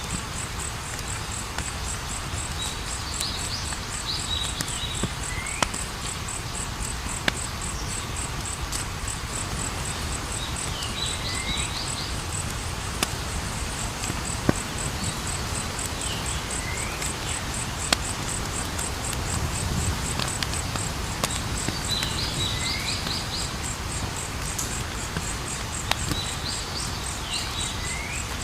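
Outdoor wood fire crackling, with scattered sharp pops over a low rumble. A cricket-like insect trills steadily in fast pulses, and a short chirping call repeats every few seconds.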